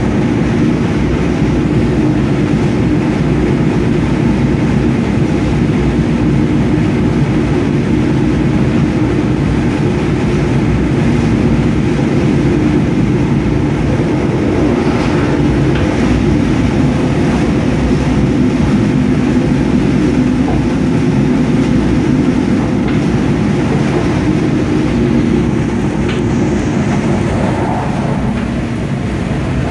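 Mugunghwa-ho passenger train running at speed, heard from inside the coach: a steady low rumble of wheels on the rails, easing a little near the end.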